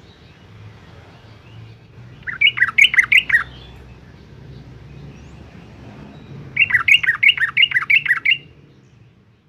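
Yellow-vented bulbul singing: two short phrases of quick notes that rise and fall in pitch, over a faint low hum. The first phrase comes about two seconds in and lasts about a second; the second comes near the end and runs nearly two seconds.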